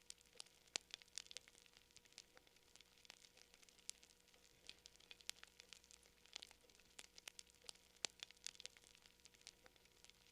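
Wood campfire crackling, with quiet, irregular sharp pops and snaps several times a second.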